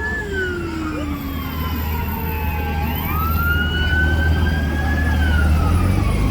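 Emergency vehicle siren in a slow wail: it falls for about two and a half seconds, rises again around the three-second mark, then starts falling once more near the end. Under it is a steady low engine rumble that grows a little louder toward the end.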